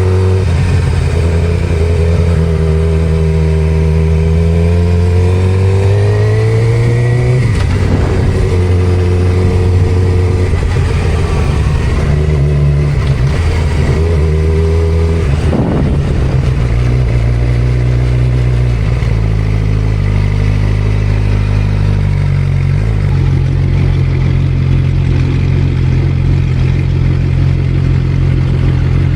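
Suzuki GSX-R600 sportbike's inline-four engine running while riding, its pitch climbing under throttle and dropping at shifts a few times, then holding steady at cruise for the last several seconds.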